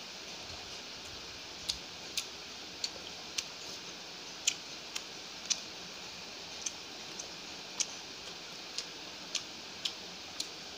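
Close-up chewing: wet mouth clicks and lip smacks, irregular, roughly one or two a second, over a faint steady hiss.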